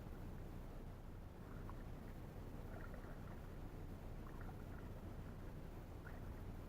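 Faint paddling in an inflatable canoe: a few soft drips and dips of the paddle in the water over a steady low background noise.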